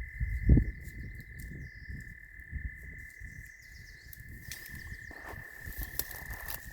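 A frog's long, unbroken high-pitched trill, held steady. A thump about half a second in and scattered clicks later on.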